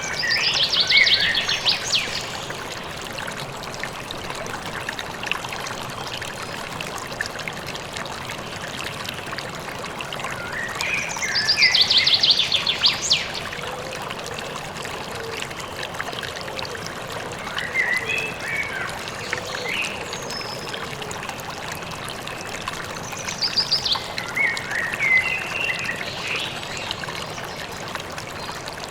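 A river or stream running steadily, with a songbird singing a short phrase that ends in a fast high trill, repeated four times at intervals of several seconds.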